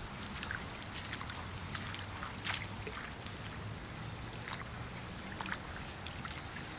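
Rainwater in a flooded back yard: a steady wash of water with scattered drips and splashes, over a low steady rumble.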